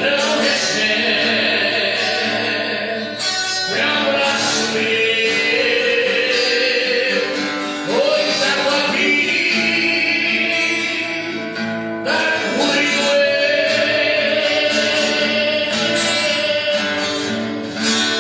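Gospel worship song: singing over a plucked guitar accompaniment.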